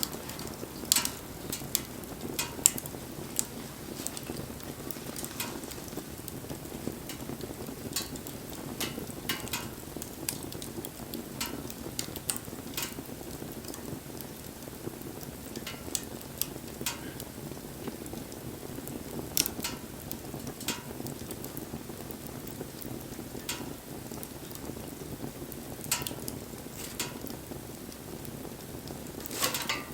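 Wood campfire burning: a steady low rush of flame with irregular sharp crackles and pops, roughly one every second or two, a couple of louder pops in the first few seconds and a cluster of them near the end.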